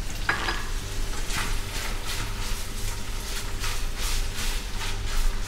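Shredded boiled chicken sizzling in hot oil in a wok, stirred with a silicone spatula in repeated strokes, about three a second, from about a second in. A short knock with a brief ring just after the start.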